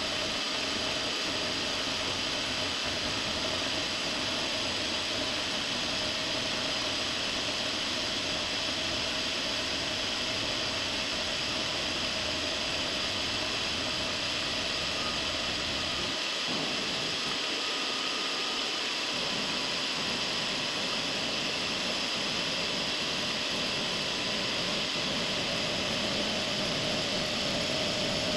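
Precision Matthews PM-25MV benchtop milling machine running steadily, its spindle turning a 1/4-inch 90-degree chamfer mill that is chamfering the edges of an aluminium plate, with a steady whine over the motor noise.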